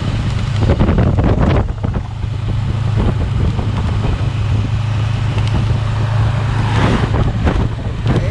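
Steady low drone of a car on the road, engine and tyre hum with a wash of road and wind noise.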